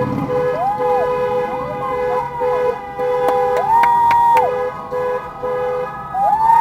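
Vehicle sirens wailing, several overlapping rise-and-fall sweeps, over a car horn honking in a run of short repeated blasts.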